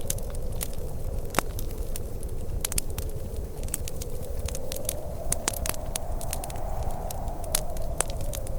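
Wood fire crackling, with many sharp, irregular pops and snaps over a steady low rumble. A faint hollow, whistling wind tone rises slightly in pitch in the second half.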